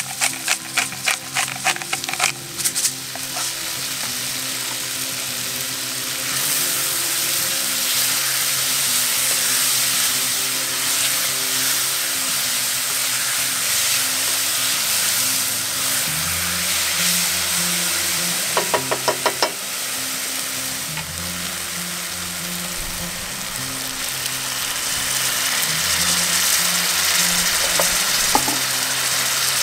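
Sliced mushrooms sizzling in a cast-iron pot while a wooden spoon stirs them. A pepper grinder clicks rapidly for the first couple of seconds, and there is a second short run of clicks a little past the middle.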